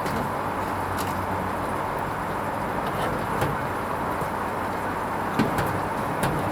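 Hoover Vision HVP16 washing machine running a Silks 30 wash: a steady running noise with a low hum and a few light clicks.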